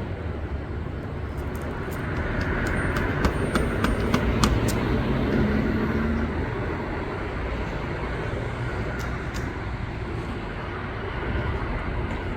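Steady outdoor background rumble with a low hum, and scattered light clicks or taps a couple of seconds in and again near the end.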